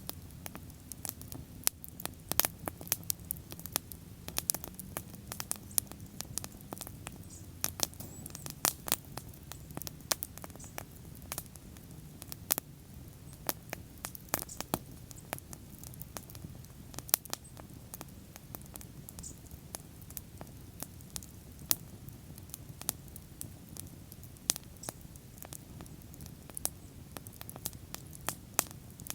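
Bonfire burning and crackling: sharp, irregular pops and snaps, several a second, over a low, steady rush of flame.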